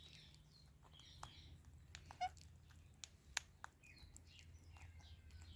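Parrots making soft chirps, with sharp clicks scattered through and a brief rapid rattle a little over two seconds in, over a low steady hum.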